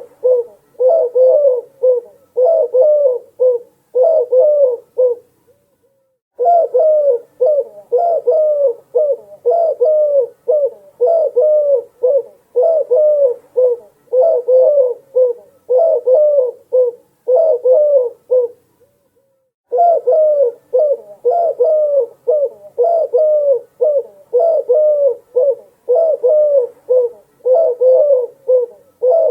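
Dove cooing in a fast run of short repeated coos, about two a second, broken twice by pauses of about a second.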